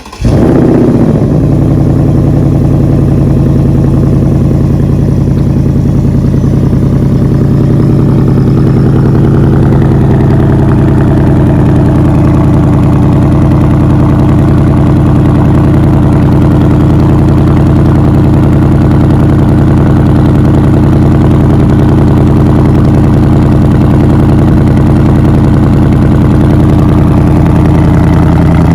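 Ford Mustang GT's 5.0 Coyote V8 firing up with a brief rev flare that falls away in about a second, then idling steadily and loudly through the exhaust.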